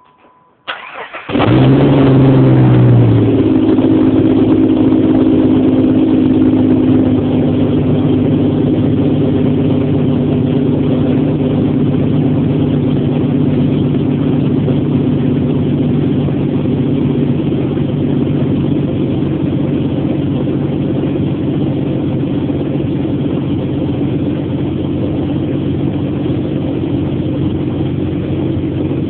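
1998 Jeep Grand Cherokee's 4.0-litre straight-six with a Cherry Bomb glass-pack exhaust starting: a brief crank about a second in, a short flare in engine speed, then a steady idle.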